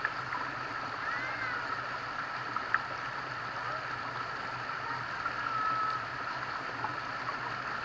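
Steady outdoor ambience of running water with a continuous high buzz, broken by a few short chirps and a sharp tick or two.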